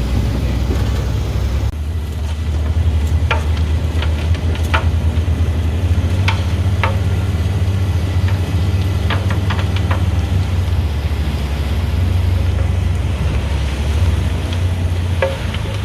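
Heavy vehicle engine running steadily with a low hum, with scattered sharp clicks and rattles.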